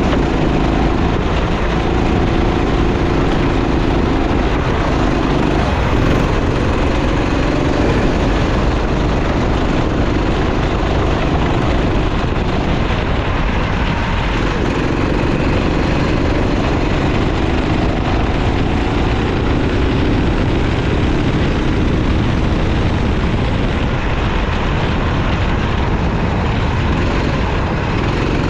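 Racing kart engine running under load, its pitch rising and falling again and again as it accelerates and slows through corners, over a constant loud hiss of wind and wet track spray.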